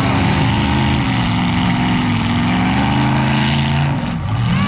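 Demolition derby car engines running loud and being revved, their pitch rising and falling, with a brief dip about four seconds in.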